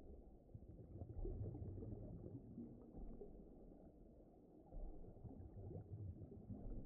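Faint, low, muffled rumbling and gurgling wash of deep water: an underwater ambience bed.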